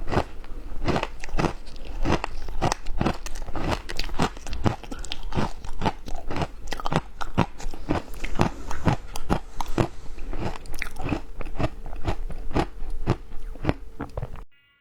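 Ice being bitten and crunched between the teeth, close to the microphone: a quick, steady run of sharp crunches, about two or three a second, that stops abruptly near the end.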